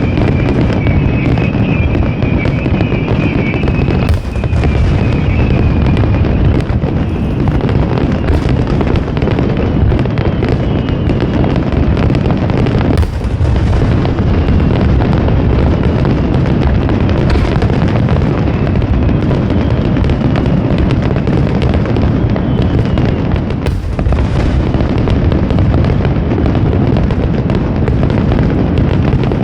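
Aerial fireworks bursting in a dense, continuous barrage during the finale of the display: a steady rumbling roar of overlapping booms with no gaps. A high wavering whistle sounds over the first few seconds.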